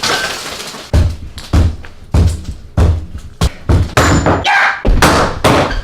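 A series of about nine heavy thuds at a steady pace, a little under two a second.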